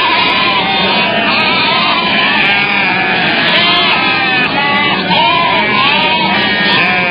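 A herd of goats bleating, many overlapping calls at once without a break.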